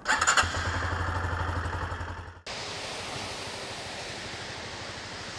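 A loud opening sound with a steady low hum cuts off abruptly about two and a half seconds in. Steady rain and wind noise on a helmet-mounted camera follows.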